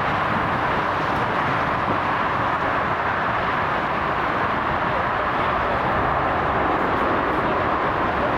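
Jet airliner engines heard at close range: a loud, steady rushing noise that stays even throughout.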